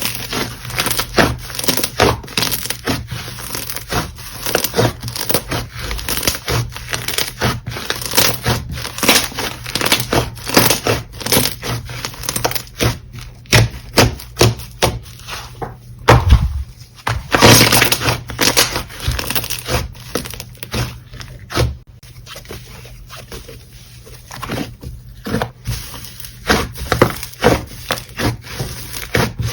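Slime being squeezed, poked and folded by hand, making a dense, irregular run of clicks and crackles with a few short quieter pauses.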